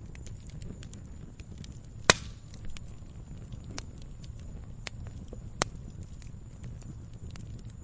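Firewood burning: a steady low rumble with scattered small crackles, and two sharp, loud pops, about two seconds in and again about five and a half seconds in.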